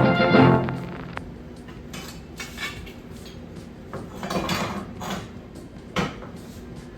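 A brass music intro fades out about a second in. Then come scattered light metallic clinks and rattles, like metal parts being handled, in a few short clusters.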